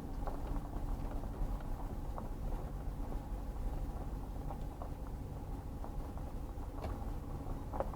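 Steady low mechanical rumble, like a running vehicle, with a few faint clicks.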